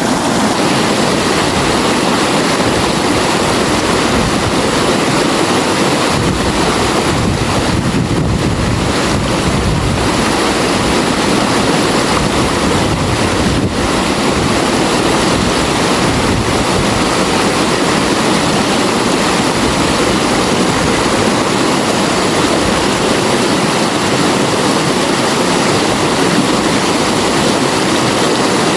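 River water flowing, a steady rushing wash of water.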